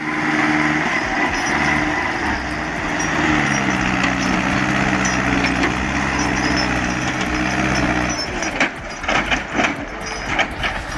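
Tractor engine running hard under load while pushing a loaded truck, its pitch dipping slightly and then holding steady. About eight seconds in the engine sound drops away and a series of knocks and clatters follows.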